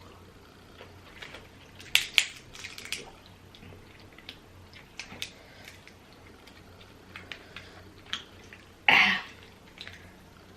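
Crab shell being picked apart by hand to get the meat out: scattered small clicks and cracks, with two sharp cracks about two seconds in and a longer, louder crunch near the end.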